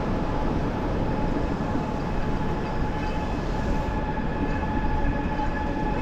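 Steady wind rumble on the microphone from riding a bicycle along the beach, with a faint steady whine in the background.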